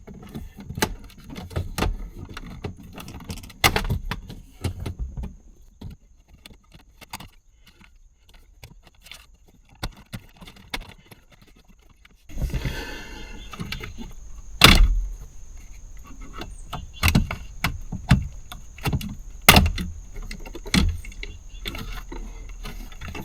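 Clicks, knocks and light rattles of hand tools and parts being handled while working on a car. About halfway, a steady hiss with a faint high whine comes on and stays under the clicks.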